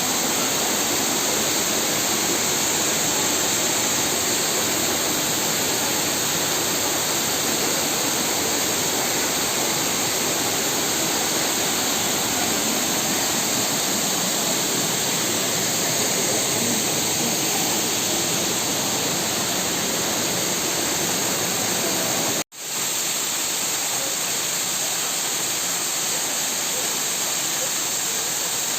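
Steady loud rush of a waterfall, falling water making an even roar, broken for an instant about two-thirds of the way through.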